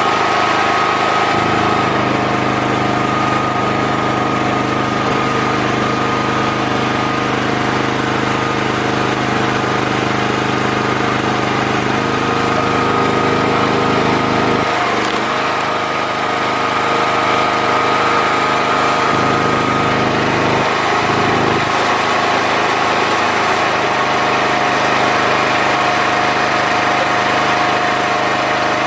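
The engine of a 40-ton hydraulic log splitter running steadily. Its note shifts briefly about halfway through, then settles again.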